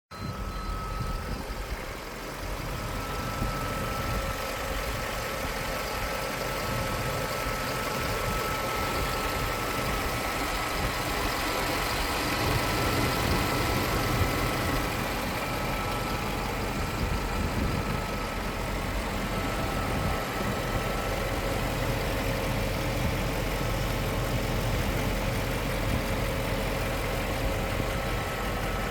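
Mercedes-Benz SL500 (R129) V8 engine idling steadily, with no revving.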